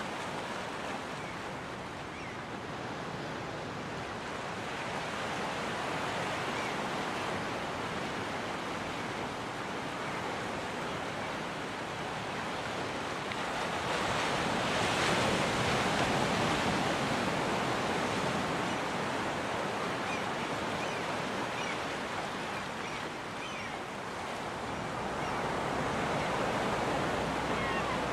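Ocean surf washing onto a beach in a steady rush, swelling louder about halfway through as a wave breaks, then easing off.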